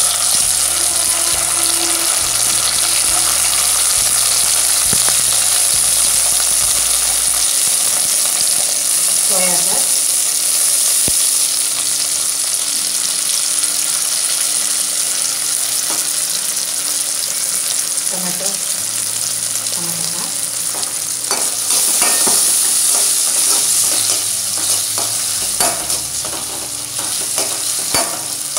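Chopped onion, capsicum and garlic sizzling steadily in hot oil in an aluminium kadai, with a few scrapes of a metal perforated skimmer stirring them against the pan.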